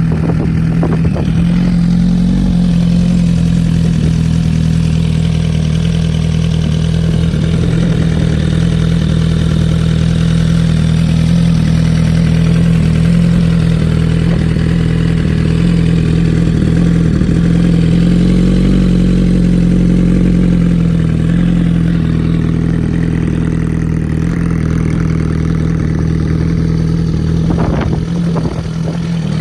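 2020 Suzuki GSX-R1000R's inline-four engine idling steadily at an even pitch, with a few clicks and a brief dip in level near the end.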